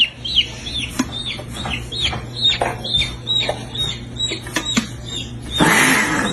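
A chick peeping over and over, about three short, high, falling peeps a second, with a few light clicks. About five and a half seconds in comes a brief, louder rush of wing flapping.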